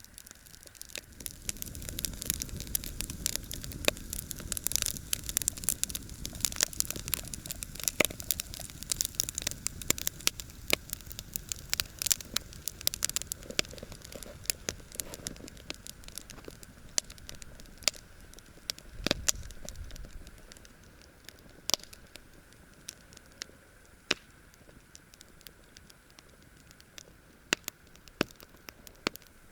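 Wood campfire crackling, with sharp irregular pops throughout and a low rumbling noise during the first half that fades about two-thirds of the way in.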